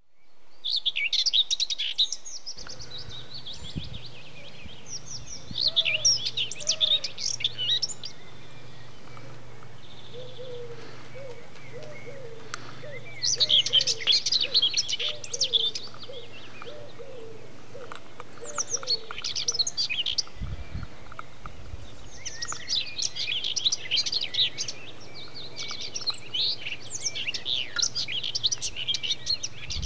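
Small birds chirping and twittering in several bursts of quick high notes, with a run of short, lower repeated notes through the first two-thirds and a faint steady hum beneath.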